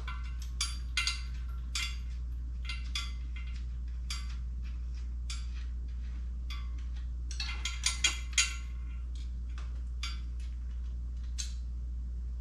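Small metal clinks and clicks of hand tools and bolt hardware being handled during assembly, in scattered groups with a busier cluster about eight seconds in, over a steady low hum.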